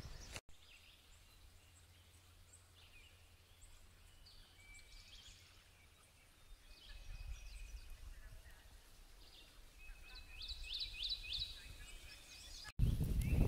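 Faint birdsong: scattered high chirps and a few short steady notes, then a quick run of four or five rising chirps near the end, over a low rumble.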